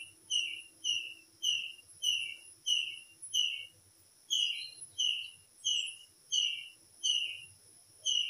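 A small bird calling over and over, a clear whistled note falling slightly in pitch, about twice a second with a short pause near the middle.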